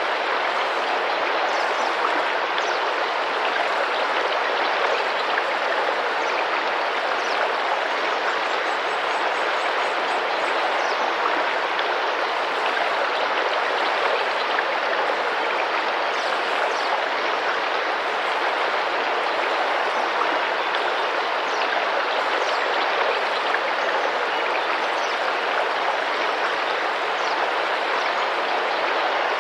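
Tropical rainforest river running and splashing over rocks in a steady, even rush. Faint, short, high bird calls sound now and then above the water, with a brief rapid trill about eight seconds in.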